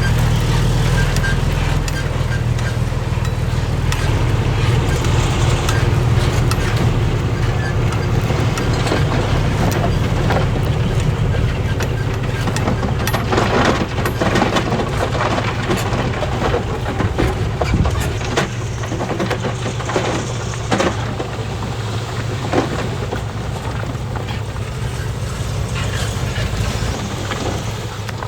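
Heavy construction machine's diesel engine running steadily under load, with scattered knocks and clanks, thickest about halfway through.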